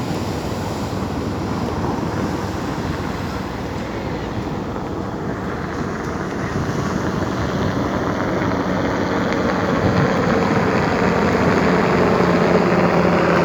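Sea surf and wind buffeting the microphone; about halfway through a steady engine drone comes in and grows louder towards the end.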